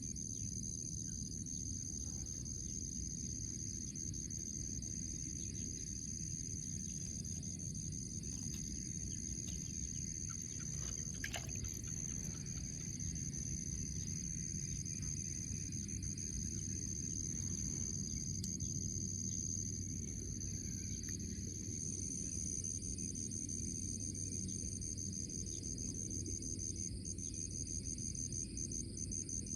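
Insects, crickets by their steady high-pitched chirring, calling continuously in several overlapping tones over a low rumbling background noise, with one short click about eleven seconds in.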